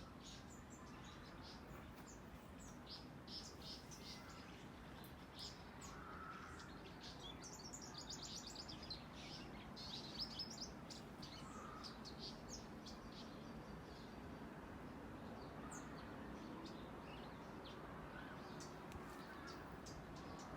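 Birds chirping and calling, many short high chirps in quick succession, busiest about halfway through, over faint outdoor background noise.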